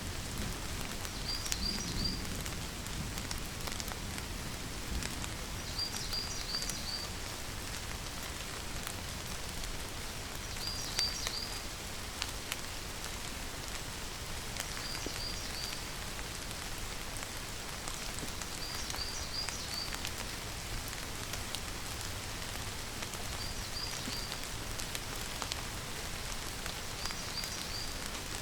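Steady rain falling, with many fine drop ticks. A high chirp of three or four quick notes repeats about every four to five seconds.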